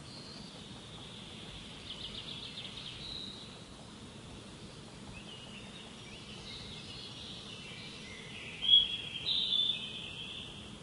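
Songbirds chirping and singing over a steady background hiss, with a rapid trill about two seconds in and the loudest, high notes near the end.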